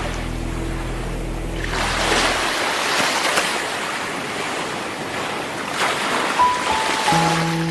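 Sea waves breaking and washing up a shore in several surges. Soft held music notes fade out in the first couple of seconds, and a few notes and chords come back near the end.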